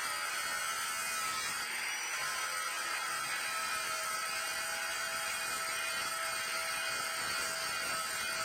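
A small electric power tool running steadily, a constant whine over a hiss.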